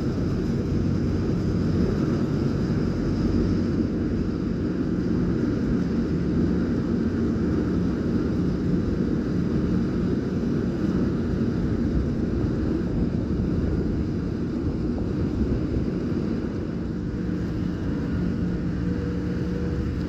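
Ferry engines running with a steady low drone, a constant hum under a wash of noise.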